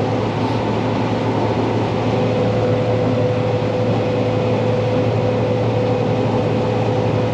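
Steady drone of a combine harvesting corn, heard from inside its closed cab: engine and cab fan running evenly, with a constant whining tone over the low hum.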